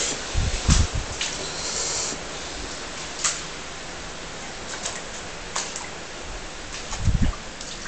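Steady hiss of rain and running floodwater, with scattered sharp ticks and two low thumps, one about half a second in and one near the end.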